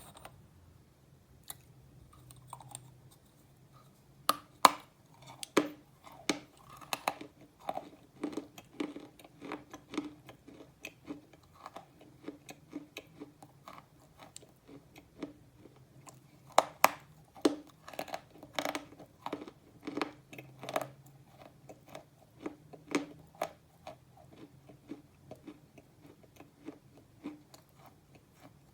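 A person biting and chewing slate pencils: sharp crunching snaps at an irregular pace, starting about four seconds in, with a few louder bites among them.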